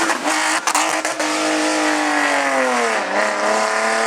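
Hillclimb race car engine with a few sharp exhaust cracks in the first second, then the revs falling steadily before dipping about three seconds in and rising again as it accelerates.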